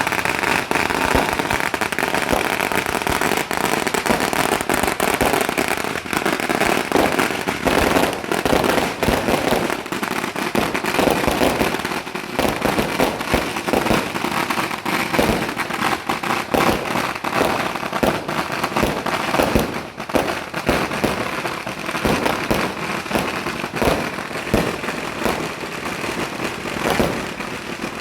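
Firecrackers and fireworks going off in a dense, continuous rapid crackle of sharp bangs, set off for Chinese New Year.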